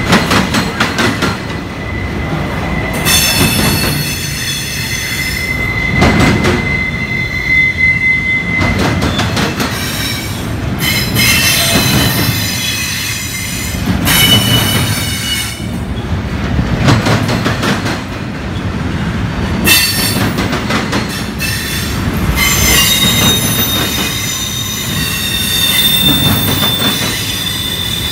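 Double-stack container train's well cars rolling past, their wheels clacking over the rail joints over a steady rumble. A high-pitched wheel squeal comes and goes.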